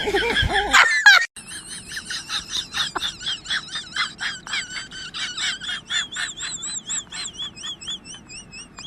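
A bird's rapid series of short, high chirps, quickening and turning into wavering whistles near the end. A moment of laughter in the first second.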